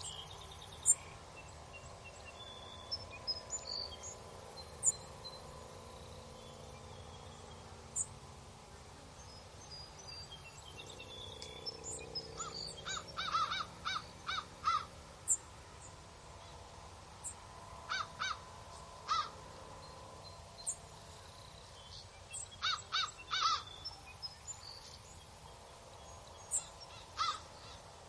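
Birds calling over faint steady outdoor ambience: four bursts of short calls, three to five in quick succession each time, with scattered small chirps between.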